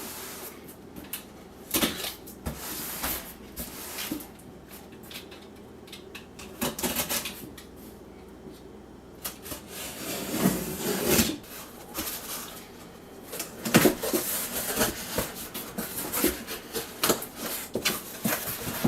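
A cardboard box being opened and its packaging handled: irregular rustling and scraping of cardboard and paper, with scattered knocks. The handling grows busier about ten seconds in and again near the end.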